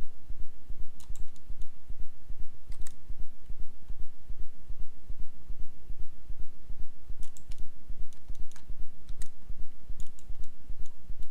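Computer keyboard and mouse clicks in scattered small clusters, from keyboard shortcuts and selections while working in 3D modelling software, over a steady low hum that throbs several times a second.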